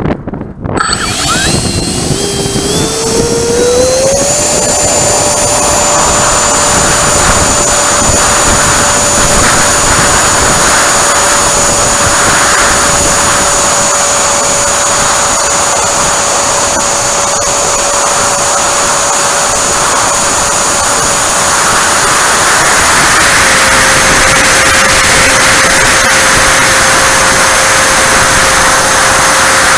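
Freewing Avanti S's 80mm electric ducted fan spooling up, its whine rising quickly over the first few seconds, then running steadily at high throttle with a rushing air noise. Its pitch drops a little about 23 seconds in as the throttle eases back.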